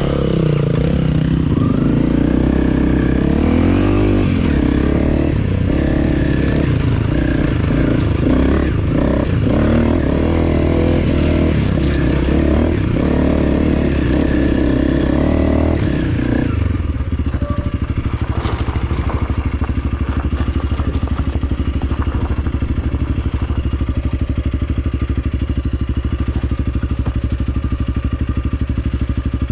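Honda CRF300L's single-cylinder four-stroke engine working under load off-road, the revs rising and falling with clatter. About sixteen seconds in it drops to a steady idle.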